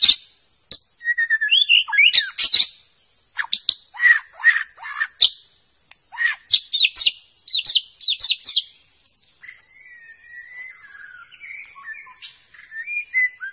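White-rumped shama singing: varied phrases of quick chirps, rapid note series and clear whistles, turning to softer, quieter warbling about two-thirds of the way through, over a steady high-pitched buzz.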